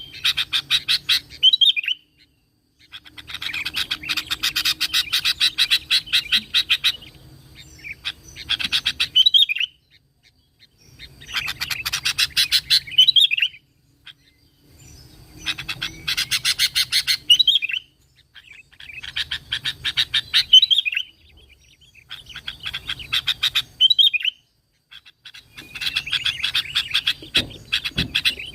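Sooty-headed bulbul (kutilang) singing in repeated bouts, one roughly every three to four seconds. Each bout is a fast rattling chatter of notes that ends in a short whistled flourish.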